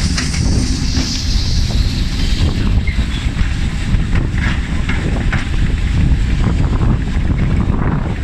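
Wind buffeting the microphone: a loud, unsteady low rumble with a few faint clicks.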